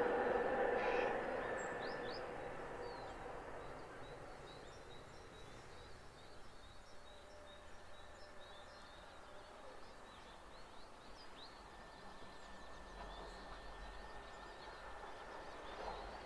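Faint, scattered chirps of small birds over quiet open-air background, after a rumble that dies away over the first few seconds. A faint steady high tone sets in about halfway, and the noise of an approaching train starts to rise right at the end.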